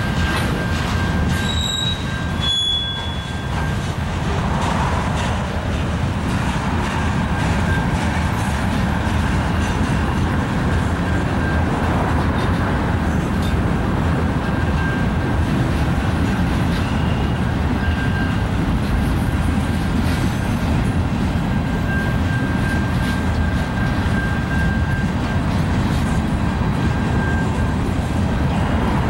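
Freight train cars rolling steadily past: covered hoppers and boxcars rumbling on the rails, with a thin high wheel squeal that comes and goes every second or two.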